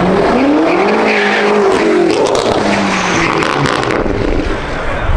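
A car engine revving hard on a drag-strip launch, its pitch climbing and falling back through gear changes as it accelerates away.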